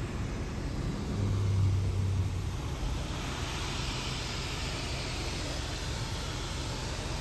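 Car wash machinery running: a steady low hum that swells briefly about a second in, with a broad hiss building from about three seconds in.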